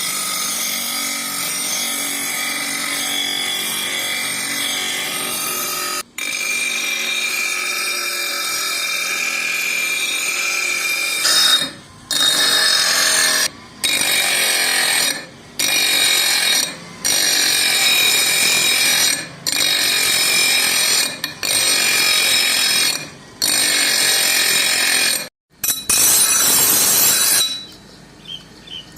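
Power tool working the steel of a meat cleaver blade: a steady grinding for about twelve seconds, then repeated passes of a second and a half or so, each broken off by a short pause.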